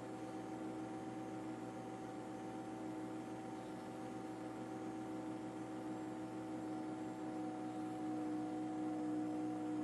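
Steady mechanical drone with several held tones over a hiss, dipping slightly in pitch near the end.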